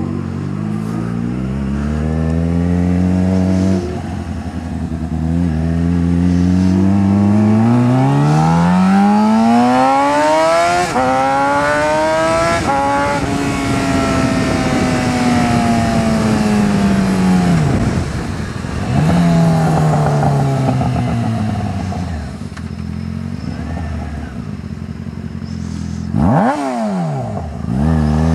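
Loud Yamaha FZ6R inline-four running through a Two Brothers Black Series full exhaust with the dB killer removed. The bike accelerates through several gears, its pitch climbing in steps. It then falls away in a long deceleration, pulls again, and near the end makes a sharp dip and rise in pitch as it passes close.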